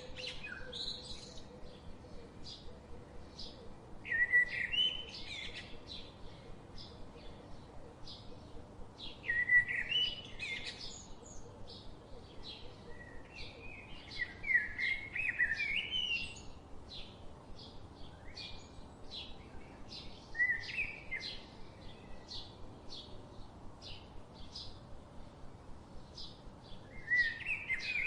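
Songbirds singing: short song phrases of a second or two come about every five seconds, over a steady series of short, high chirps about twice a second.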